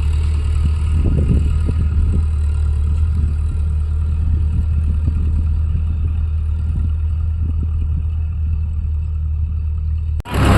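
Tractor diesel engine running steadily under load, with scattered light clattering. It cuts off abruptly near the end and a louder engine sound takes over.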